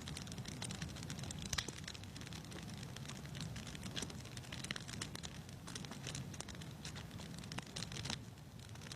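Wood fire crackling in a fireplace: irregular sharp pops and snaps over a steady low rumble and hiss.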